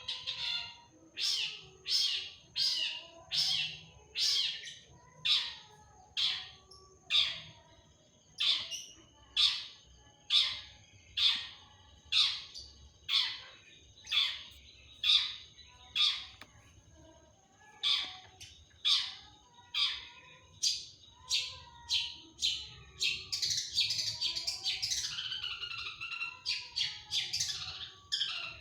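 Long-tailed shrike (cendet) singing: a long string of sharp, repeated calls, slightly more than one a second, breaking near the end into a denser run of rapid chattering notes.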